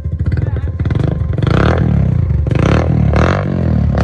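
Yamaha FZ-S V1's single-cylinder engine running through an aftermarket Akrapovic exhaust, revved in about three short throttle blips from about a second and a half in. Up close it is loud.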